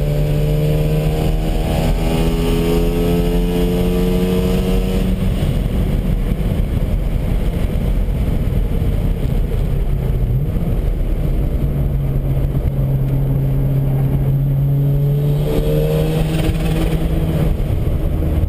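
Mazda RX-7 FD3S twin-rotor rotary engine heard from inside the cabin under hard acceleration. Its note slowly rises in pitch over the first few seconds, gives way to a steadier stretch mixed with road and wind noise, and rises again near the end.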